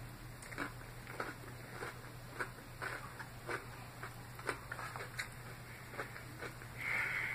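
Close-up chewing of salad: soft crunching and wet mouth clicks, irregular, about one to two a second. A brief louder hiss sounds near the end.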